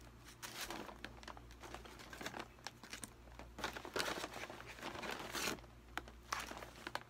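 McDonald's paper takeaway bag and paper burger wrappers rustling and crinkling in irregular bursts as wrapped burgers are pulled out of the bag.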